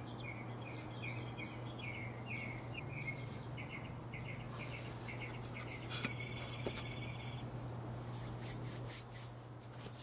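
A songbird singing a rapid run of chirping notes that stops about three-quarters of the way through, over a steady low hum.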